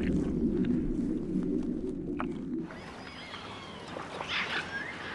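A low rumble that fades and stops about two and a half seconds in, followed by quieter rainforest ambience with birds giving short rising and falling calls.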